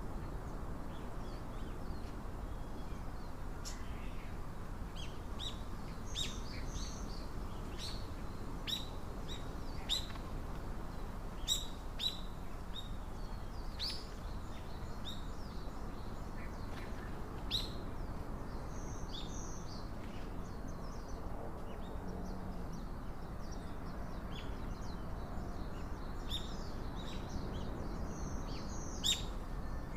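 Small birds chirping: short, high call notes that drop in pitch, scattered irregularly throughout, over a steady low background hiss.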